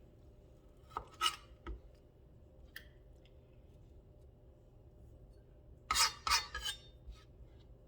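A kitchen knife cutting the skin off a kiwi: two short runs of scraping, slicing strokes, one about a second in and one about six seconds in, with a few light ticks between. A faint steady hum runs underneath.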